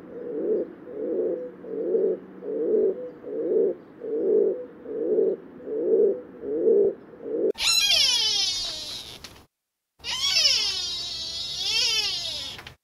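Rock pigeons cooing: a low coo repeated about one and a half times a second. About halfway through it gives way to two long, high-pitched animal calls with many overtones, sliding down and wavering in pitch.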